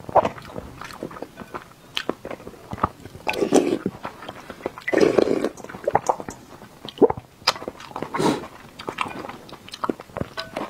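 Close-miked chewing of soft boiled egg: wet mouth clicks and smacks, with a few louder, longer mouthfuls.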